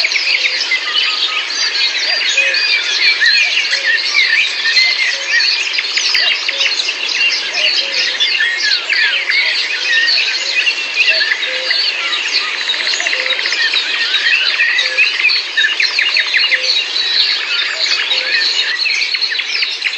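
A dense chorus of many songbirds chirping and whistling at once, over a steady background hiss.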